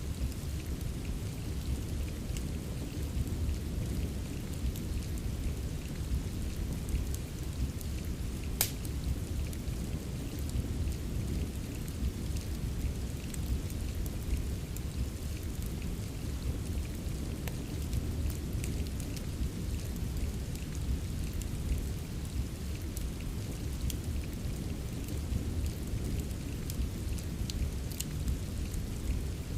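Steady rain with a deep, constant low rumble, mixed with a fireplace's scattered small crackles and pops; one sharper pop about nine seconds in.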